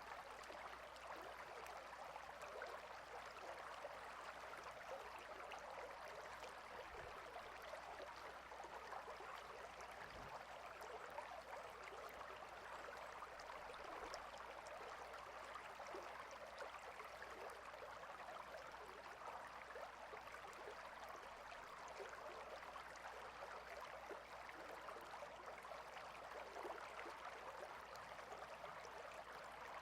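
A stream of water flowing steadily, a soft, even rush with no change throughout.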